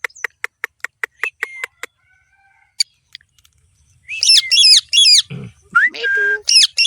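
Pet parrot calling: a quick run of short chirps, about five a second, then after a pause loud harsh squawks falling in pitch, coming in quick threes, with a short rising note and a brief whistle between them.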